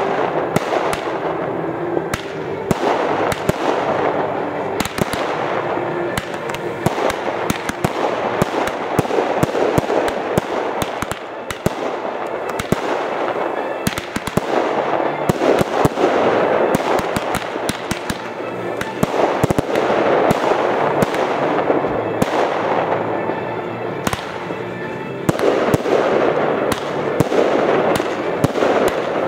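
Fireworks display going off continuously: a dense, uneven string of sharp bangs and crackles over a steady hissing rumble of launches and bursts.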